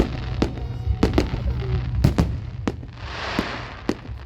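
Fireworks display: shells bursting in a run of sharp bangs, some in quick pairs, with a short hiss about three seconds in.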